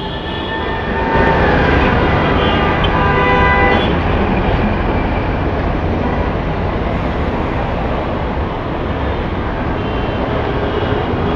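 Busy street traffic: a steady wash of engine and road noise, with a horn held for about three seconds starting about a second in.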